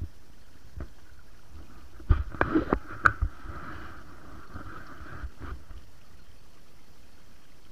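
Running water at a fish trap in a flooded stream, with a cluster of splashes and knocks about two to three seconds in.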